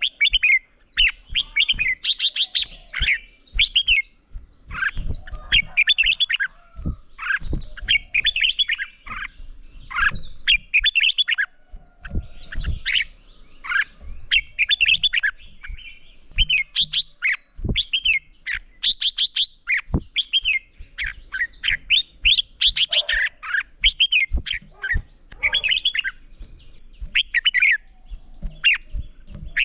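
Red-whiskered bulbul singing in rapid, bright warbling phrases, one after another with short gaps: the loud, energetic song that keepers call competition song.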